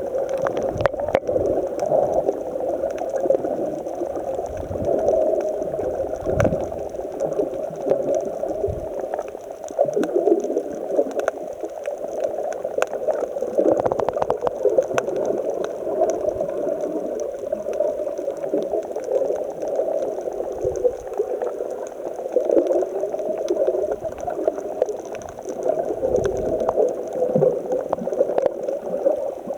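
Muffled churning and gurgling of rough sea water, with irregular low thumps throughout.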